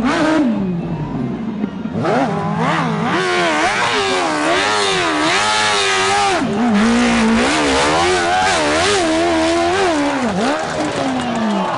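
Motocross dirt bike engine revving hard under repeated throttle, its pitch rising and falling every second or so. It starts abruptly, with a steady lower stretch about two seconds in and a deep drop near the end.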